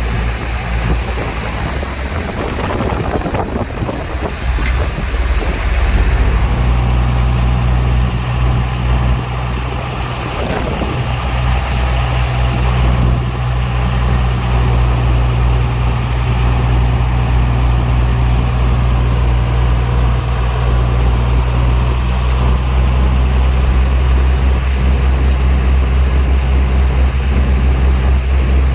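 Heavy diesel engine of earthmoving machinery running with a steady deep drone; its note wavers briefly a few seconds in and again about ten seconds in.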